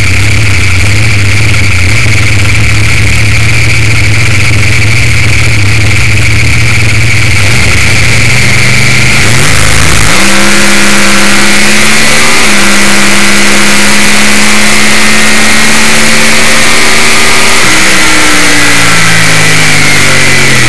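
Very loud Top Sportsman Mustang drag-race engine, first running at low revs with a steady deep tone, then rising quickly to high revs about halfway through and held there for several seconds with a brief step in pitch, before the revs fall away near the end as the throttle comes off.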